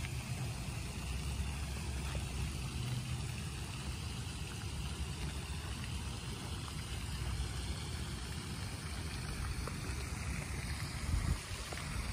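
Rain falling on a pond: a steady wash of noise over a low rumble, with a short low thump near the end.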